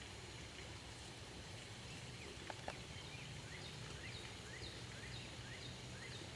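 A bird calling in a quick series of short, thin chirps, several a second, over a steady low background hum. Two sharp clicks come about two and a half seconds in.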